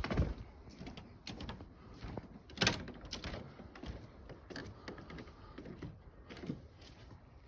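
Scattered light knocks and clicks at an uneven pace, with the sharpest about two and a half seconds in.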